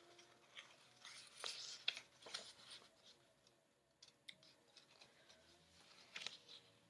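Near silence, with a few faint clicks and rustles of paper leaflets and packaging being handled.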